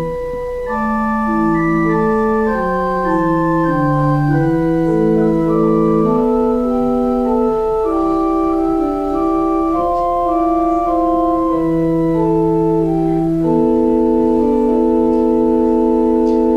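Organ playing slow, sustained chords that move from one to the next, settling on a long held chord near the end.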